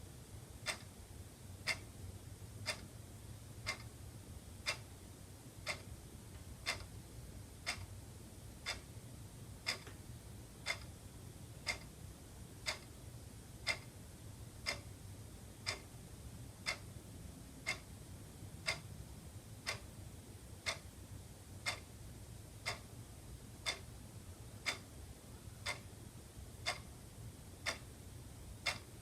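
Wall clock ticking steadily, about one tick a second, over a faint low hum.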